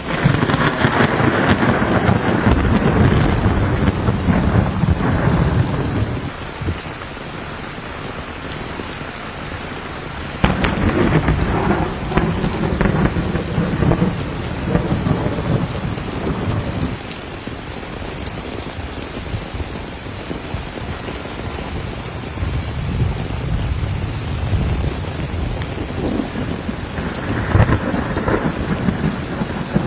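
Steady rain with thunder rolling three times: a long rumble at the start, a sudden louder clap about ten seconds in that rolls on for several seconds, and another rumble near the end.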